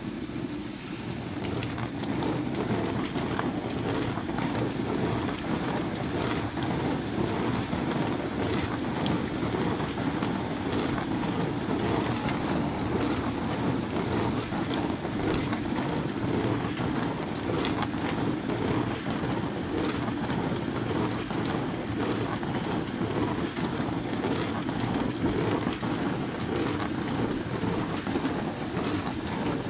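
Water swishing and splashing steadily inside a running Bosch washing appliance, building up over the first second and then holding.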